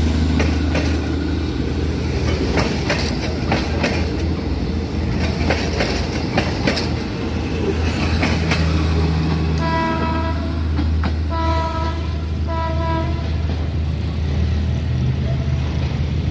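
A PNR INKA diesel multiple unit passing close by: a steady low diesel rumble, with wheels clicking over the rail joints through the first several seconds. About ten seconds in, a train horn sounds three short blasts.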